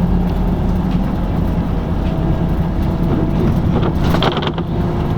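LiAZ-5250 bus on the move, heard from inside the cabin: a steady engine drone with road noise, and a brief rattle about four seconds in.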